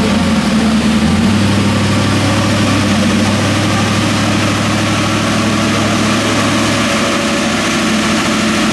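Holden HQ one-tonner's 6.0-litre LS2 pushrod V8 with a single rear-mount turbo, idling steadily and loudly.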